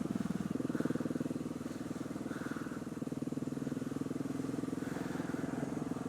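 Single-cylinder supermoto motorcycle engine running at low, steady revs, a fast even pulsing beat, as the bike is ridden gently on an icy road.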